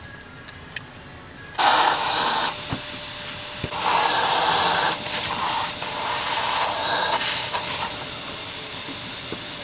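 Shop vac switched on about a second and a half in, running with its sound and loudness shifting as the nozzle works in the intake ports, sucking loosened carbon off the intake valves. It is shut off near the end.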